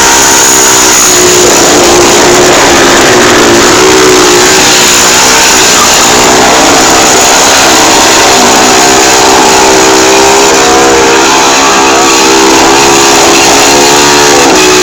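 Motorcycle engine held at high revs for a long stretch, very loud, its pitch dipping and climbing back several times over a steady rushing hiss.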